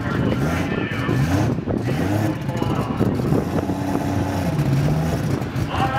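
Car engines running at a drag strip, their pitch rising and falling, with voices mixed in.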